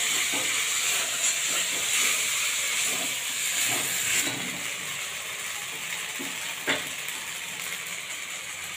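Ground spice paste of mustard, cumin and poppy seed sizzling in hot oil in a steel karai as it is stirred and fried down, the stage where the paste cooks before water goes in. The sizzle is louder for the first four seconds and then eases, with one sharp click about six and a half seconds in.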